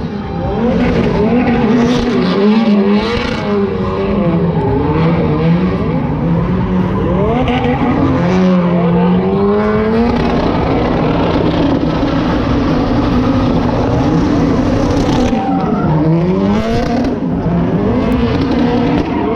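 Drift car engines revving hard, with the pitch rising and falling and held around the rev limiter, while tyres squeal.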